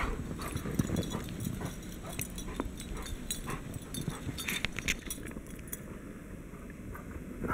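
Dogs moving about and playing in snow: scattered crunching steps and small clicks over a low steady rumble.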